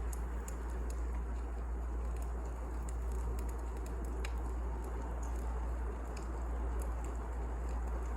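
Wood fire crackling: a steady low rumble and hiss of burning logs with scattered sharp snaps and pops.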